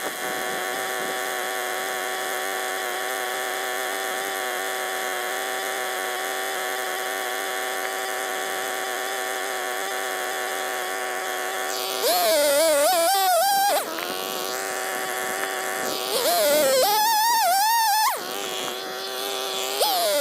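A small engine running at a steady pitch, then three louder stretches of about two seconds each with a wavering pitch, starting about twelve, sixteen and twenty seconds in.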